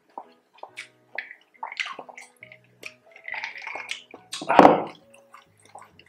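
Close-miked eating sounds: crispy pork belly being chewed in many short, sharp crunches and wet mouth clicks, with gulps of juice, and one louder thump about four and a half seconds in.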